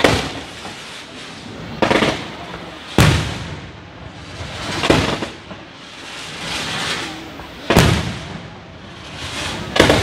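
Fireworks display: a series of sharp bangs every one to three seconds, five in all, with crackling swells between them.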